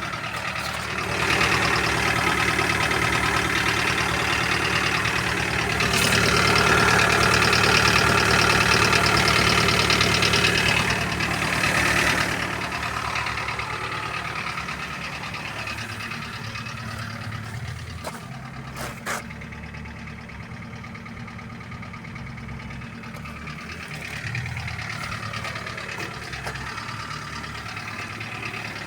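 Toyota Carina 1.8 engine running with a rhythmic knock in the engine, which the owner takes for a dead engine. It is louder for the first ten seconds or so, then settles to a quieter idle.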